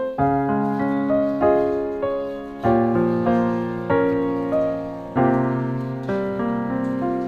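Background piano music: a gentle, slow piece with notes and chords struck about twice a second, each fading before the next.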